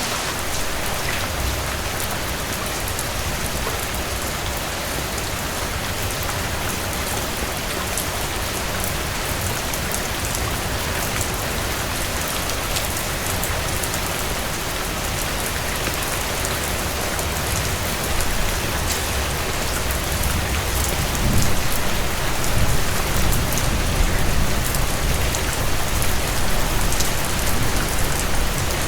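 Heavy rain hitting a cabin porch: a steady, dense hiss with scattered sharp ticks. A low rumble swells about two-thirds of the way through and stays to the end.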